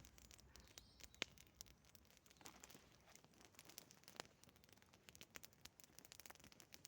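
Faint campfire crackling: scattered small pops and ticks over a quiet background, with two sharper pops, about a second in and about four seconds in.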